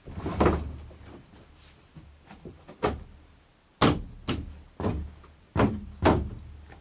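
A series of about seven irregular knocks and clunks, hard objects striking each other at uneven intervals, the loudest in the second half.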